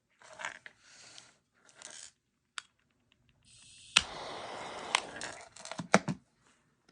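Small parts of a disassembled gas lighter being handled: short rustles and a sharp click, then a steady hiss lasting about two and a half seconds, broken by several sharp clicks.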